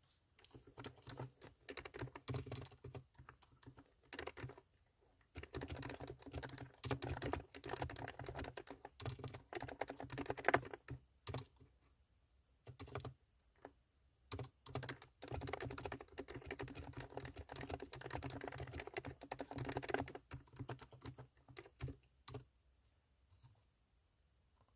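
Typing on a COX Original Retro mechanical keyboard with 35 g tactile switches: runs of quick key clicks in bursts, broken by short pauses, stopping near the end.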